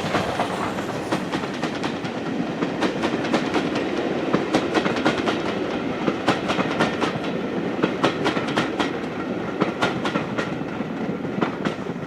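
A train's wagons or coaches rolling past, a steady rumble of wheels on the rails with repeated sharp clicks as the wheels cross rail joints.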